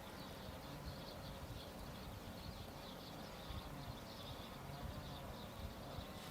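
Faint outdoor ambience: a steady hiss with repeated short high chirping, like insects, and a low rumble; the high-flying airliner itself is not heard.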